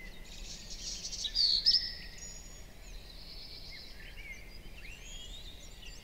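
Small birds chirping, with rapid buzzy trills loudest about a second and a half in, then scattered short whistled calls, over a faint low background hum.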